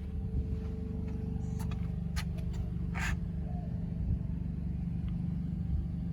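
Steady low hum of a BMW X3 xDrive35i idling, with a few short clicks and rustles about two and three seconds in.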